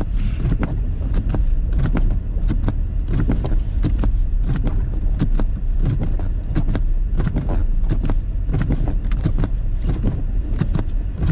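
A car driving on a snow-covered road, heard from inside the cabin: a steady low rumble of the engine and tyres, broken by frequent irregular knocks and clicks.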